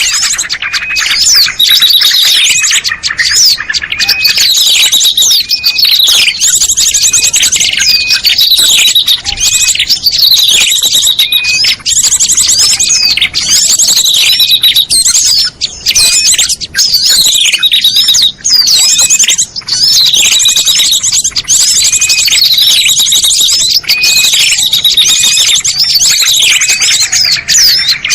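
Recorded small songbird calls from a bird-lure (pikat) track: dense, loud chirps, quick downward-sweeping notes and high rapid trills, repeating over and over in a steady cycle.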